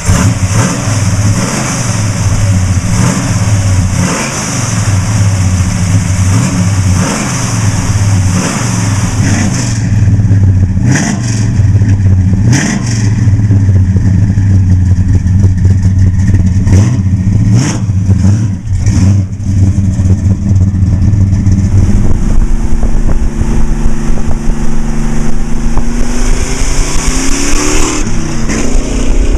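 1966 Chevrolet Chevelle Malibu's 454 big-block V8 running, with several short sharp sounds in the middle and the engine speed climbing over the last several seconds.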